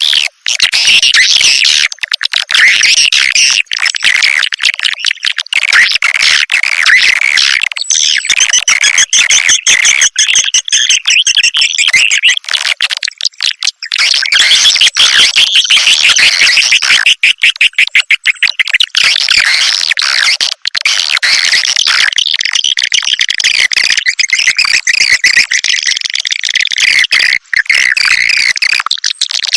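Swiftlet lure-call recording: a loud, unbroken chorus of high twittering chirps laced with rapid clicks. This is the call played from swiftlet houses to draw edible-nest swiftlets in to roost.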